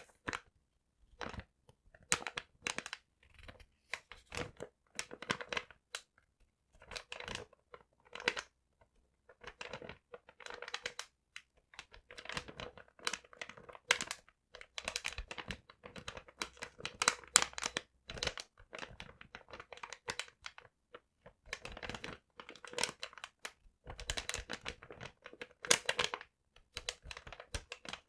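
Paper being crumpled and rustled in irregular bursts with short pauses between them.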